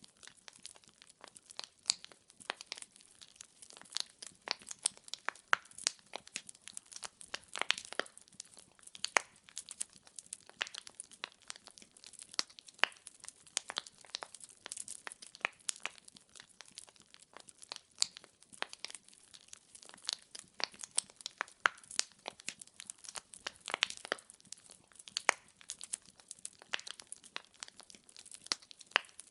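Wood fire burning, with dense, irregular crackles and pops from the burning logs over a faint hiss.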